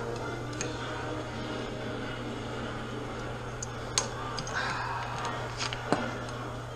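Scattered light clicks and taps of small parts and hand tools being handled, with sharper clicks about four and six seconds in, over a steady low hum.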